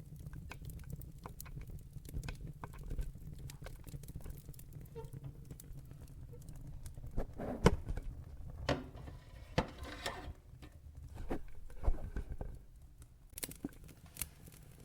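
Logs burning in a fireplace: a steady low rumble with constant small crackles, and a few louder pops in the second half, with a short hiss among them.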